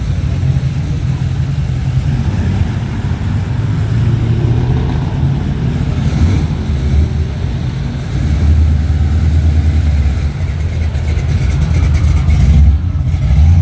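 A car engine running with a steady low rumble, louder from about eight seconds in.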